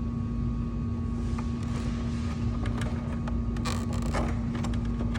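Light clicks and a short scrape of a camera cable connector being lined up by its keyway and screwed together by hand, over a steady low hum.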